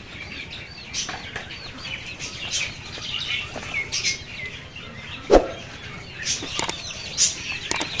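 Birds chirping in many quick short chirps, mixed with light rustling and clicks. A single sharp knock about five seconds in is the loudest sound.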